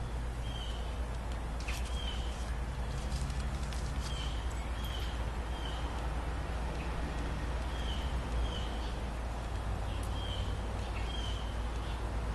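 A small bird chirping over and over, short high chirps every half second to a second, over a steady low hum. A few faint clicks.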